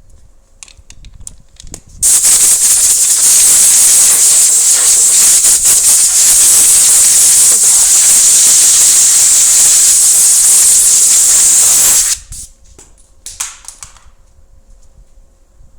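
Compressed air hissing steadily for about ten seconds, then cutting off suddenly, with a few small clicks and knocks before and after.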